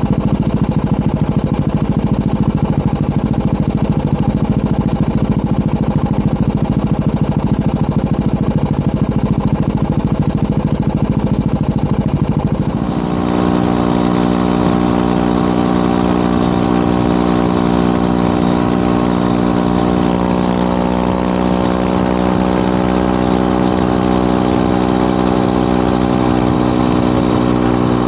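Motorcycle engine running steadily. About halfway through, its note settles into a smoother, even hum and the rushing noise over it drops away.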